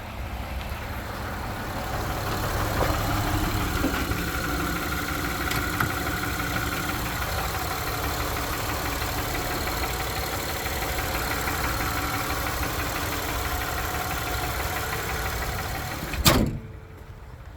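2008 Honda Ridgeline's V6 engine idling steadily. A single loud thump about 16 seconds in, after which the sound drops away to a much quieter level.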